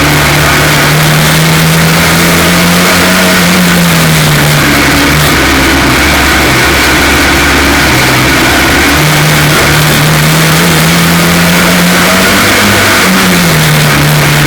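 F2 stock car engine under race load, its pitch climbing and then dropping back twice as the car accelerates and lifts off, with a constant noise haze from the car at speed. The engine is running with a misfire caused by a cracked spark plug.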